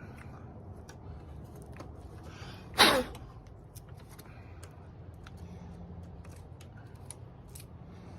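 A person sneezes once, loudly, about three seconds in, with a short breath drawn in just before. Faint scattered clicks and taps of parts being handled come and go.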